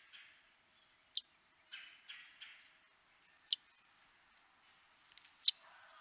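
Short, high bird call notes: three sharp loud ones about two seconds apart, with softer brief chirps between them.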